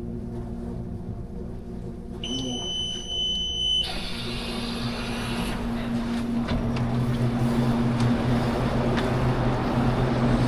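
A train: a steady high electronic beep lasts about a second and a half, then the rumble and low motor hum of the train build up and grow steadily louder.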